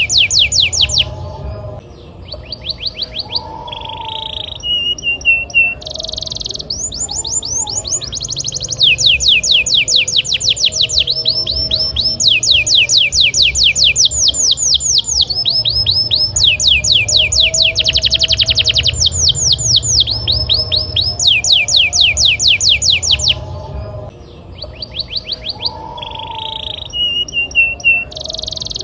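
Male canary in full song: long fast trills (rolls) of rapidly repeated, downward-sweeping high notes, switching to a new roll every second or few, with a brief lower warbling phrase twice. A steady low hum runs underneath.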